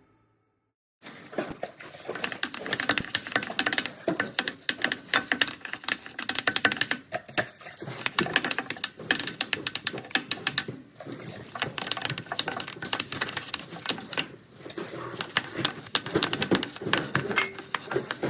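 Close, irregular scrubbing and clicking noises of a car being washed by hand, starting about a second in.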